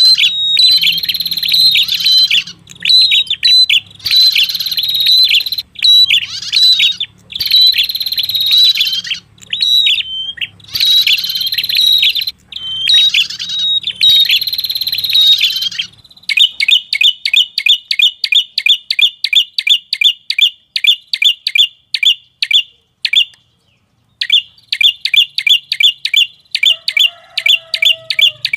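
Recorded lure call of a red-headed prenjak: dense, fast chattering song for the first half, then a quick run of sharp, evenly repeated chip notes at about four a second, broken by a short pause, with a low hum under the first half.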